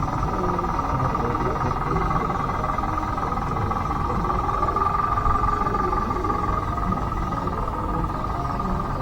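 Electric drive motor and gearbox of a converted Bruder D5 RC bulldozer whining steadily, a little louder about halfway through, over a rough grinding from the running gear.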